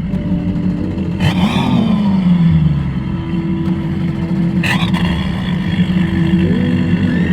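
A large engine idling with a steady low rumble. There are two short sharp bursts, one about a second in and another near the middle, and the engine pitch sags after the first.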